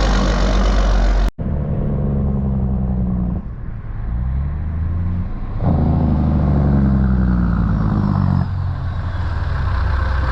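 Heavy diesel truck engine running with a low, pitched drone. The sound cuts off sharply about a second in, and the pitch sags slowly while the level dips and then jumps up again near the middle.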